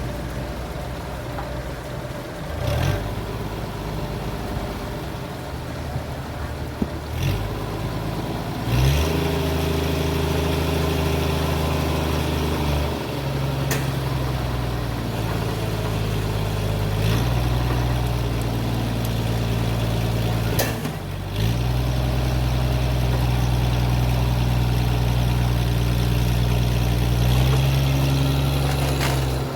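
An engine running steadily under changing load, its pitch stepping down and back up several times, with a few sharp knocks.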